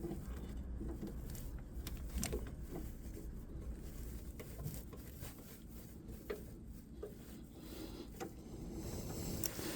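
Faint scattered clicks and taps of hands working on plastic vacuum pipework and fittings, over a low steady background rumble.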